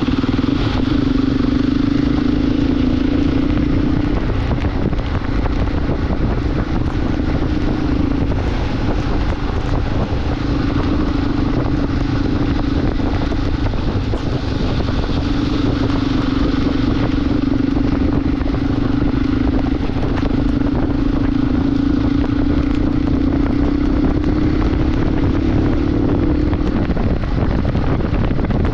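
Motorcycle engine running at a steady pace on the move, its note dipping briefly a few times, with steady wind noise rushing over the microphone.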